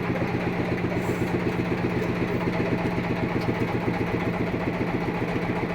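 Engine of a sawmill idling steadily with a fast, even pulse.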